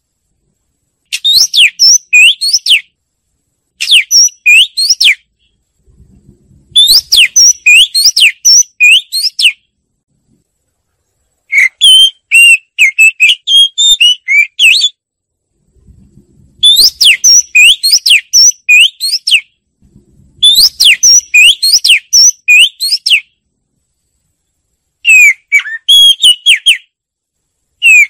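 Oriental magpie-robin singing: about seven loud phrases of quick, sweeping whistled notes, each phrase lasting one and a half to three seconds, with short pauses between them.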